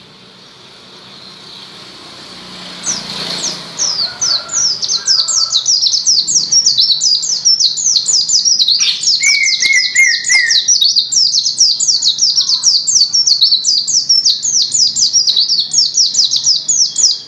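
White-eye (pleci) singing: a long, fast, unbroken run of high, downward-slurred notes, several a second, beginning about three seconds in after a faint rising hiss. A short lower trill joins about nine seconds in.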